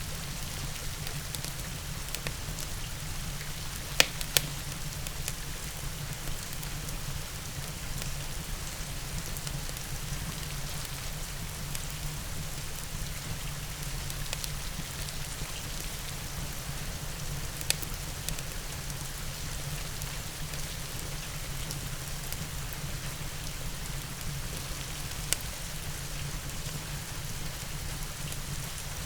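Steady rain with the occasional sharp crackle from a log fire, a pair of loud pops about four seconds in and single pops later on.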